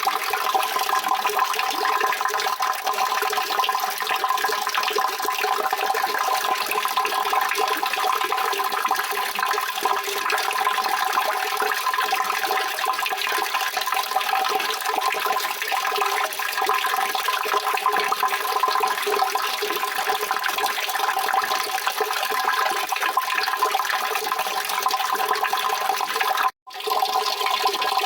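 Continuous rushing water, steady and dense, cutting out for a split second near the end before carrying on.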